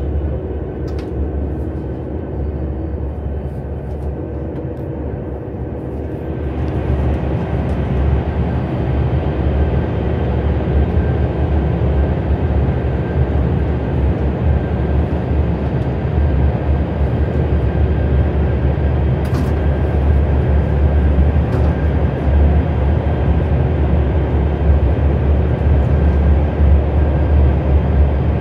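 KTX high-speed train running, heard from inside the passenger cabin: a steady low rumble of wheels and running gear that grows louder and fuller about six seconds in, then holds.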